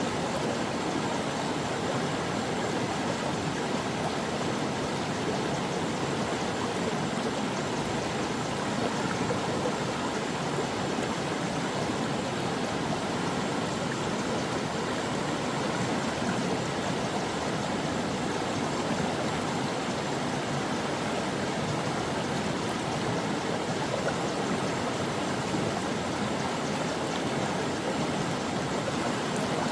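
Stream water flowing, a steady, unbroken rush of running water.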